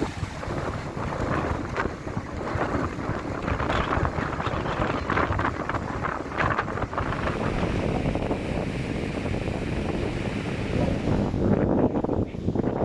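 Strong hurricane wind blowing in gusts and buffeting the microphone.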